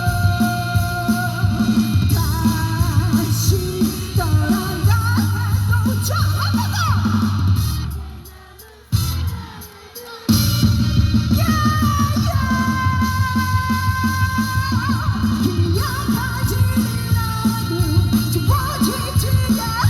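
Live pop-rock band playing a song, with drums and guitar. About eight seconds in the music thins out and nearly stops for a couple of seconds, then the full band comes back in.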